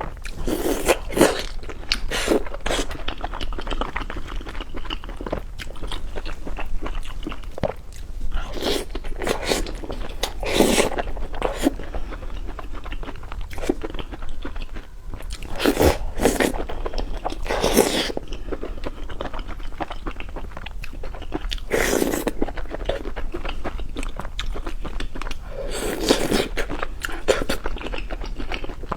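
Close-miked eating: a person biting into and chewing crunchy food, with loud crisp crunches every few seconds between steadier chewing.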